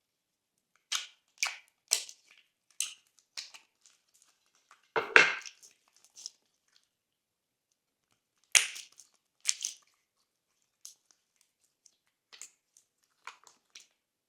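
Thick glossy slime being pressed and folded by hand, giving a string of separate sharp pops and crackles with short silences between. The loudest, fullest pop comes about five seconds in.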